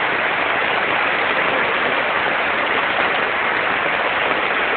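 Storm runoff of water, mud and sewage pouring down a street like a waterfall during heavy rain: a steady, loud rushing of water.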